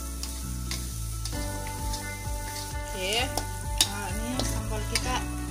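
A metal spatula stirring and scraping chili sambal with petai beans as it sizzles in oil in a wok, with several sharp scrapes against the pan, the loudest a little before four seconds in. The paste is being fried until the oil separates.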